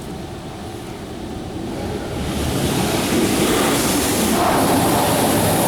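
Car wash water jets spraying onto a car, a steady rushing hiss that swells about two seconds in and then holds.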